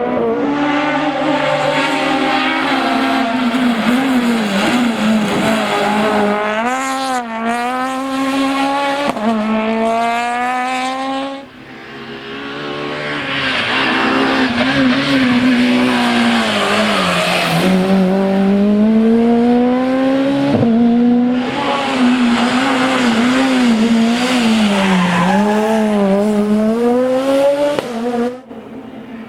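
Peugeot 206 Super 1600 rally car's high-revving 1.6-litre four-cylinder engine driven hard on a stage, its pitch climbing and falling again and again through gear changes and lifts. The sound drops away sharply about eleven seconds in and builds again for a second pass, with a rushing noise under the engine for a few seconds.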